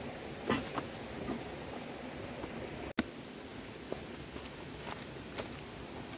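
A steady high-pitched insect drone over outdoor background noise, with scattered light clicks and taps. The sound cuts out for an instant about three seconds in.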